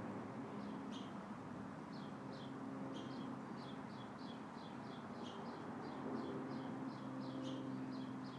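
A small bird chirping repeatedly: short, high chirps that sweep downward, a few at first, then a quick run of about two or three a second. Underneath are a low steady hum and a soft even hiss.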